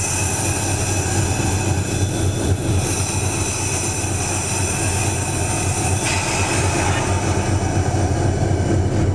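A train running on steel rails: a steady low rumble with drawn-out high-pitched wheel squeal.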